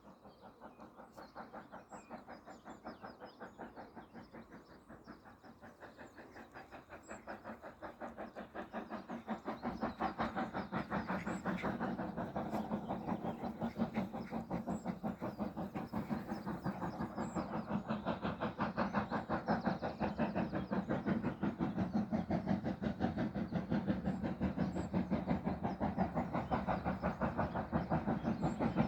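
BR Standard Class 4MT 4-6-0 steam locomotive 75014 working hard up a gradient, its exhaust beating in a rapid, regular rhythm that grows steadily louder as it approaches.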